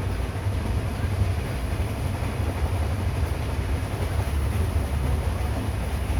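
Passenger train with Russian-built third-class coaches running along the track: a steady low rumble from the wheels and carriage, with no breaks.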